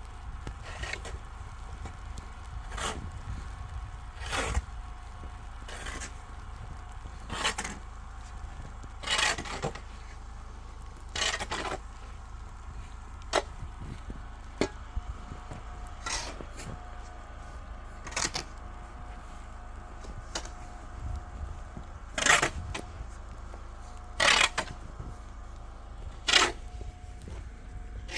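Snow being shovelled: a short scraping crunch every one to two seconds as the shovel digs in, over a steady low rumble.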